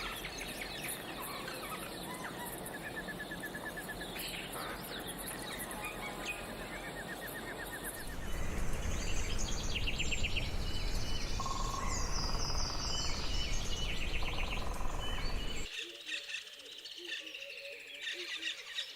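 Various birds chirping and calling over a steady outdoor background noise. The background changes abruptly: louder with a low rumble about eight seconds in, then much quieter near the end, with bird calls continuing.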